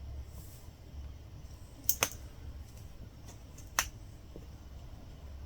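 Metal latch hook tool clicking as yarn is hooked through the canvas: a quick double click about two seconds in and a single click near four seconds, over a low steady hum.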